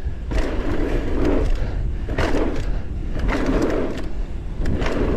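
Mountain bike rolling fast down a dirt trail: steady tyre noise with frequent short rattles and knocks over bumps, and a constant wind rumble on the microphone.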